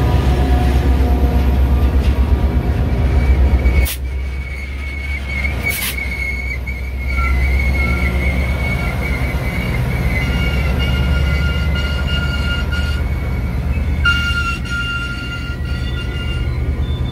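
A Metra train passing close by. The two EMD F40PH diesel locomotives at the head rumble past, and the rumble drops off about four seconds in as the bi-level stainless steel coaches follow, with a couple of sharp clanks. Steady high-pitched brake squeal rings over the rolling coaches as the train slows to stop at the station.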